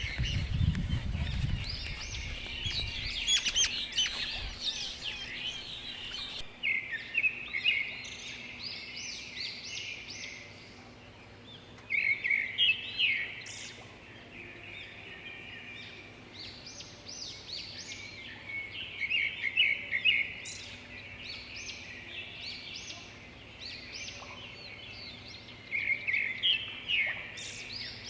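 Many small birds chirping and trilling in high, quick calls, swelling into bursts of chatter every several seconds. A low rumble sounds in the first couple of seconds.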